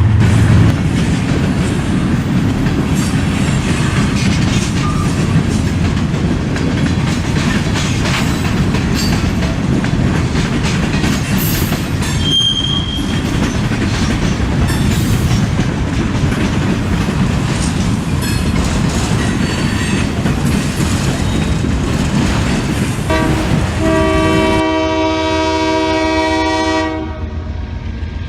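A freight train rolling past, its railcars' wheels rumbling and clattering over the rail joints, with one brief wheel squeal about halfway through. Near the end the rolling noise drops away and a locomotive's multi-tone air horn sounds for about three seconds.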